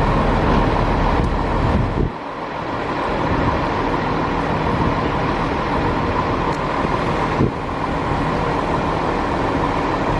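Diesel railway locomotive running at a station with a steady rumble and hum. The deep rumble drops away suddenly about two seconds in, and a sharp click comes about seven seconds in.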